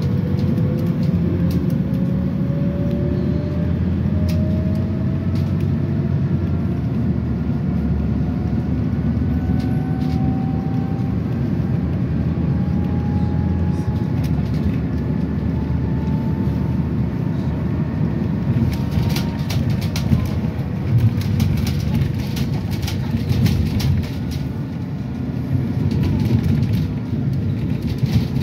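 Inside a city bus or tram under way: a steady running rumble with a drive whine that climbs slowly in pitch as the vehicle picks up speed. In the last third the whine fades and a run of clicks and knocks comes through.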